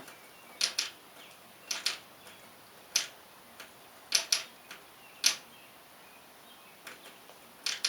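Tarot cards being handled and laid down: a scatter of short, sharp snaps and taps, several in quick pairs, at irregular intervals.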